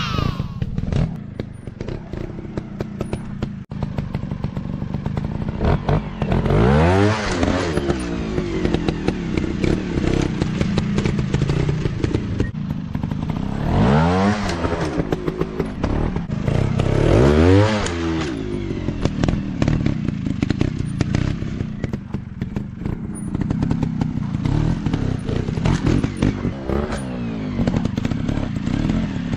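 Dirt bike engines running and being revved hard in bursts, three strong rising revs standing out, with clattering knocks throughout.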